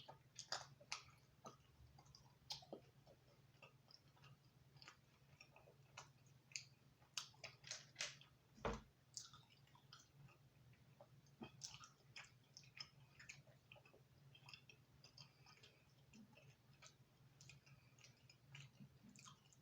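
Close-up chewing and crunching of thin, crispy-crust pizza: irregular crisp crackles of the crust being bitten and chewed, thickest in the middle of the stretch, over a faint steady hum.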